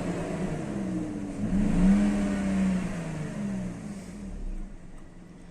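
BMW M52 straight-six engine revved with the throttle, its speed climbing unevenly and then dropping back. The revs rise in pulses because the engine is misfiring intermittently.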